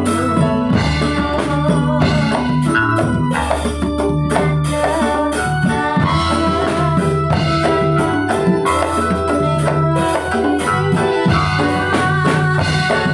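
Ndolalak dance music: an electronic keyboard melody over drums keeping a steady, repeating beat.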